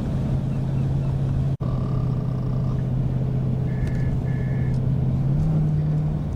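Steady low engine hum of a running vehicle. The sound cuts out for an instant about a second and a half in, then a short tone plays, and short high electronic beeps come twice. Near the end the hum steps up slightly in pitch.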